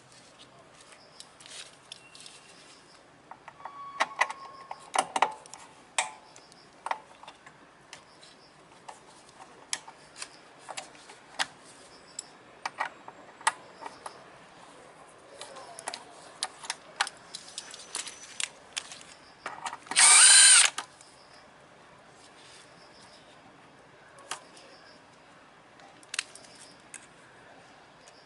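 Scattered sharp clicks and metal knocks of tools and brake parts being handled. About twenty seconds in, a power tool runs in one short, loud burst, rising slightly in pitch.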